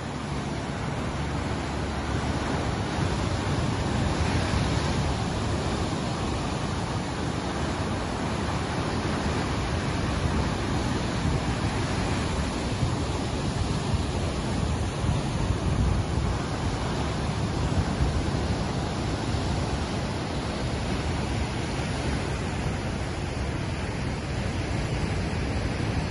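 Ocean surf: a steady wash of breaking waves that swells and eases gently, with no single crash standing out.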